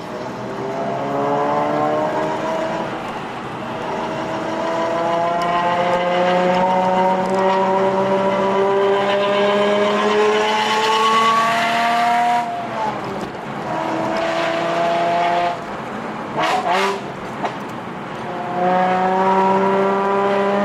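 Nissan Fairlady Z (Z34) engine heard from inside the cabin, rising steadily in pitch under acceleration for about twelve seconds, then dropping away. After a few quieter seconds with two brief sharp sounds, it pulls strongly again near the end.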